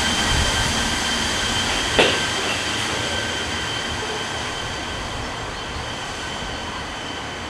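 Train rolling slowly along station track with a steady high-pitched whine, a single sharp clunk about two seconds in, and the sound gradually fading.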